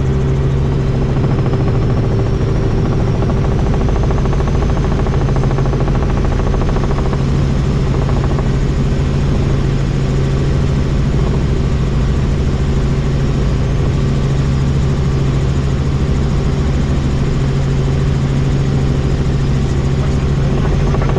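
Helicopter in flight: a steady engine and rotor drone with a constant low hum, unchanging throughout.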